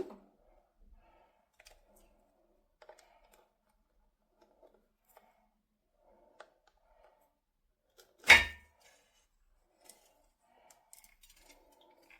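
Quiet handling noises, faint rustles and small clicks, with one sharp knock a little past the middle that is much louder than the rest.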